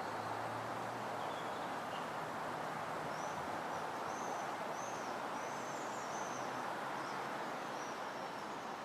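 Steady wind noise, with a small bird singing faintly behind it in a run of short high chirps from about three seconds in.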